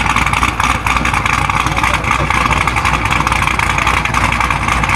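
Car engine running with a steady low rumble, with crowd voices over it.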